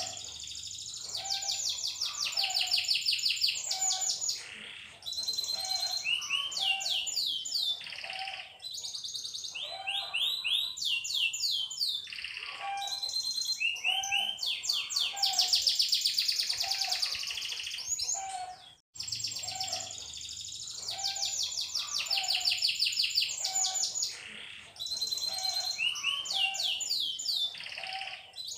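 Domestic canary singing a long, high-pitched song of fast trills and rolls. The phrases of rapidly repeated rising notes run on with only brief pauses between them.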